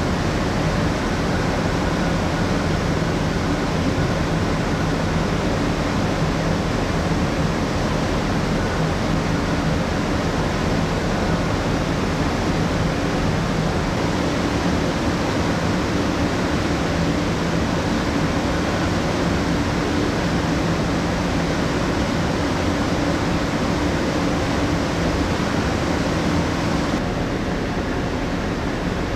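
Steady rush of a passenger ship's air-conditioning and ventilation, with a low, even machinery hum under it; the higher hiss drops away near the end.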